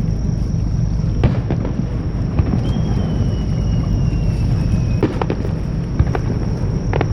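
Fireworks display: a few sharp cracks over a steady low rumble, with a thin whistle that falls slightly in pitch for about two seconds midway.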